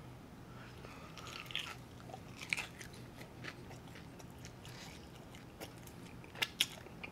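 Close-miked mouth sounds of a man biting and chewing the meat off a ranch-dipped chicken wing: wet chewing broken by scattered sharp clicks, the two loudest close together near the end.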